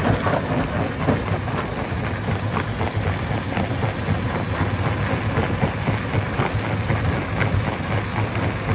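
Heavy machinery engine running steadily, with frequent small knocks and clatter of stones.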